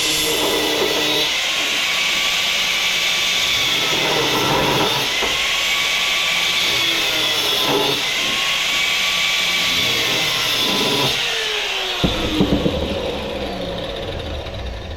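Handheld power tool running hard while cutting into metal scrap, its pitch dipping and recovering every couple of seconds as it bites under load. About twelve seconds in it winds down, with a few clunks of the workpiece.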